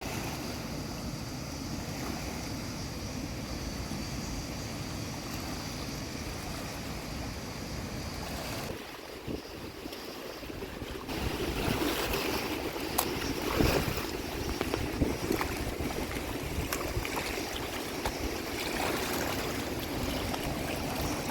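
Flowing stream water rushing steadily, with wind noise on the microphone. About nine seconds in the sound drops and changes, then from about eleven seconds it is louder, with scattered sharp clicks.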